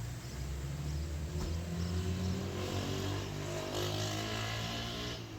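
A vehicle engine running, its pitch rising in the second half as it speeds up.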